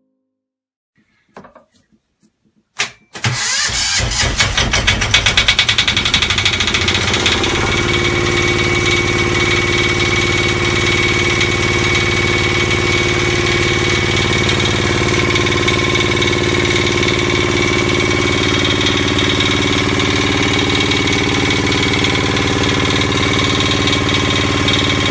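A small boat's engine starting: a few faint clicks, then a sharp knock as it catches about three seconds in. It runs unevenly for a few seconds, then settles into a steady run.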